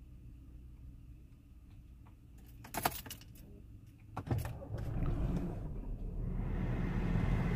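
Keys jingling about three seconds in, a click, then the BMW 535i's twin-turbo straight-six starting and running, its noise building toward the end.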